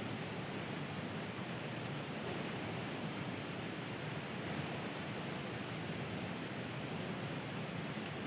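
Steady, even hiss of falling rain, with no separate drops or knocks standing out.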